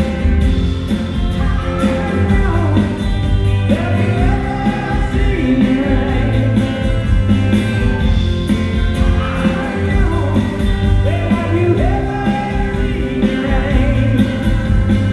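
Live rock band playing a song, with a male lead voice singing phrases over guitars, bass and drums keeping a steady beat.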